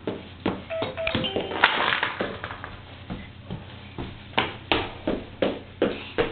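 A string of sharp clicks and knocks of hard objects being handled, about a dozen at uneven spacing, with a short beep-like tone of two pitches about a second in.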